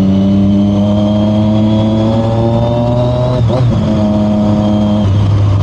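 Triumph Daytona 675R's inline three-cylinder engine running under way, the revs climbing slowly, with a gear change about three and a half seconds in.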